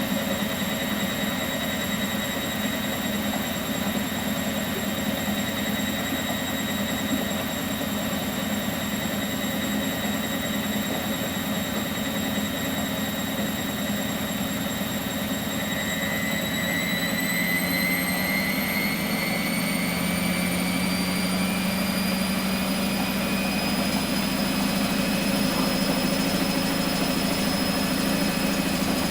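Miele Professional WS 5426 washing machine running, with a steady motor whine. From a little over halfway, the whine rises in pitch as the drum motor speeds up, then holds at the higher speed.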